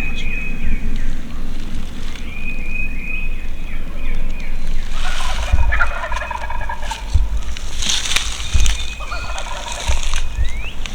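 Wild turkey gobbling, a rattling call about five seconds in and a shorter one near nine seconds, over repeated high songbird phrases.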